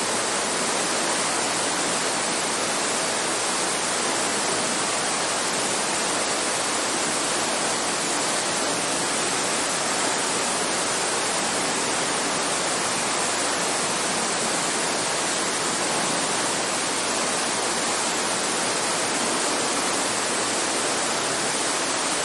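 Steady, even rain falling: a dense hiss of rainfall with no single drops standing out.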